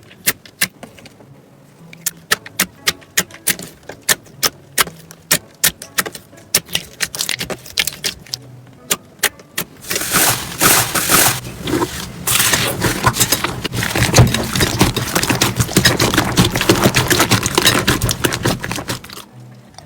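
Slime being squeezed and pressed by hand, making a run of sharp separate pops and clicks, then, about halfway through, a dense, louder crackling.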